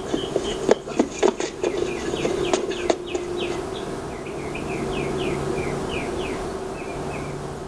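Birds chirping in rapid, short falling notes, several a second. A run of sharp clicks or knocks falls in the first three seconds, over a faint steady hum.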